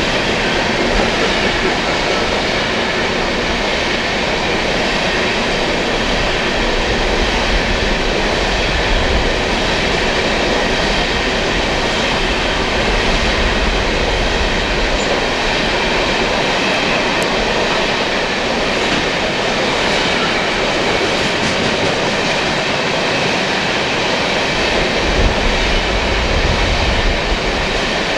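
Coal train cars rolling past at close range: a steady, loud wash of wheel and rail noise.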